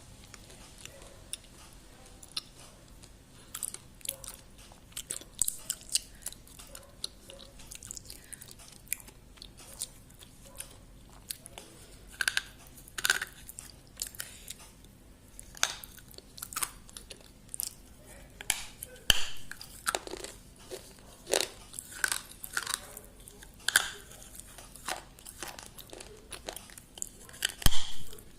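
A person chewing and biting food close to the microphone: irregular crunches and wet mouth smacks, with a louder sharp knock near the end.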